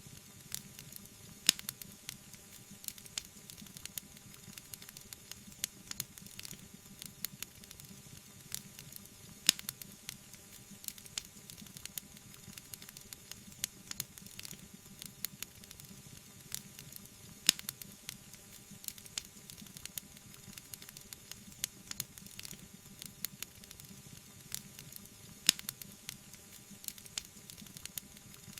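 Wood fire crackling in a fireplace: a steady run of small snaps and ticks over a soft hiss, with four louder pops spaced about eight seconds apart.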